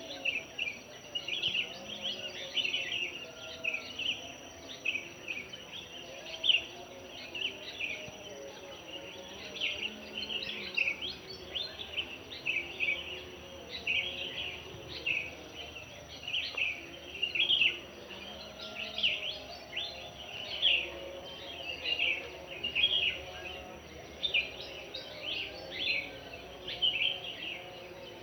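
Several birds chirping and singing together in a dawn chorus, a busy stream of short, quick notes that never lets up, over a steady high-pitched tone.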